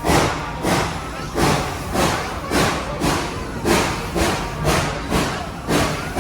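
Steam locomotive No. 190 working, its exhaust chuffing steadily at about two beats a second.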